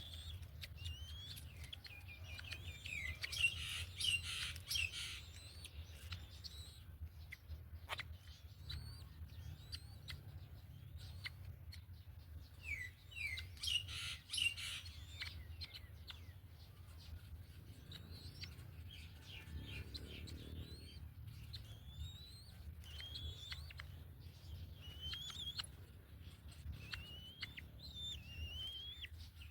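Birds calling: short rising chirps repeat throughout, broken twice by a burst of rapid chattering. A steady low hum runs underneath.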